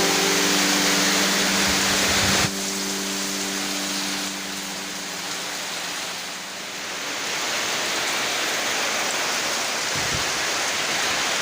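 Steady rain falling, an even hiss. Held musical tones carry over at the start and fade away within the first few seconds.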